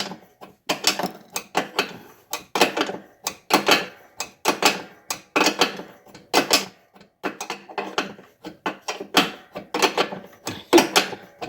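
Wrench working the jam nuts on a riding mower's deck-height linkage: a run of irregular metallic clicks and clinks, a few a second.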